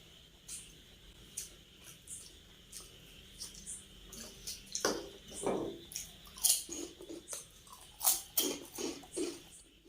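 Close-miked eating: irregular wet chewing and mouth smacks, louder and busier from about halfway through.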